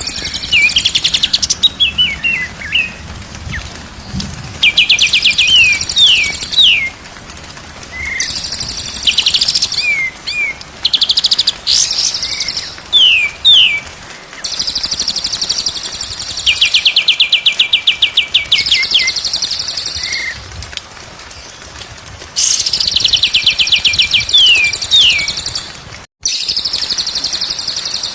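White-rumped shama (murai batu) singing the same phrase over and over: a fast, rattling trill, then a few quick down-slurred whistles. The sound cuts out briefly near the end.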